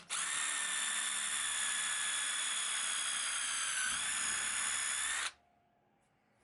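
High-speed handheld electric power tool running with a steady high-pitched whine. Its pitch sags briefly at about four seconds as it is loaded, and it cuts off suddenly a little past five seconds.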